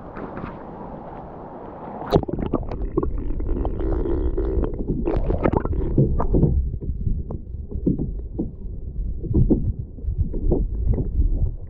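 Water splashing around a kayak, with a low wind rumble on the microphone that comes up about two seconds in.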